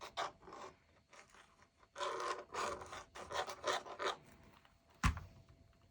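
Repeated scraping strokes of glue being rubbed onto a small paper tab, in short runs, with one sharp knock near the end.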